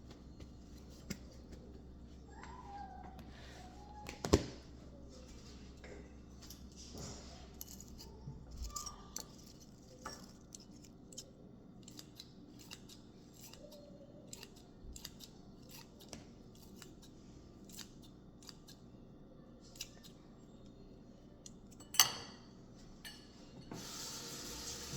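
Kitchen prep sounds: a string of light clicks and snips from utensils, with two sharp knocks, one about four seconds in and one about three seconds before the end.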